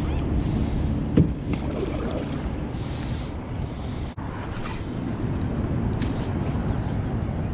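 Wind buffeting the microphone over water lapping against a canoe hull, with a single sharp knock about a second in.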